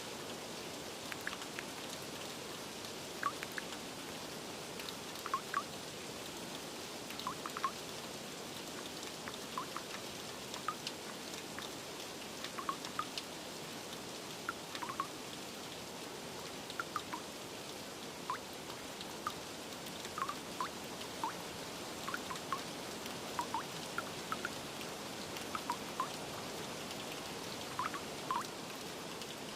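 Steady rain with irregular water drops plinking, about one or two a second.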